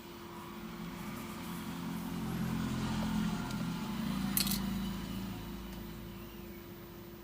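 A motor vehicle's engine passing by, growing louder and then fading, over a steady hum, with one sharp click about four and a half seconds in.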